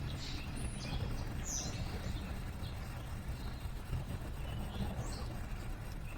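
Small birds giving short, high chirps, several in the first two seconds and a few more around five seconds in, over a steady low background rumble.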